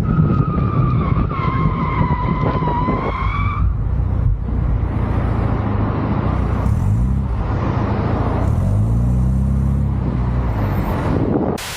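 Car tyres squealing in one long, slightly wavering note for the first three and a half seconds. After that a car engine revs up twice with rising pitch, among road and tyre noise.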